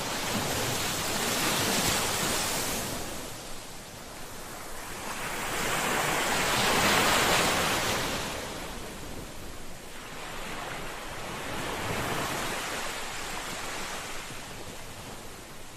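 Sea waves washing onto the shore, three surges about five seconds apart, each swelling and fading away.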